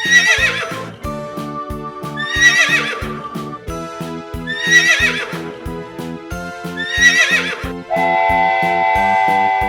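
A horse neighing: four whinnies about two and a half seconds apart, each wavering and falling in pitch. They play over children's background music with a steady beat, which ends on a held note.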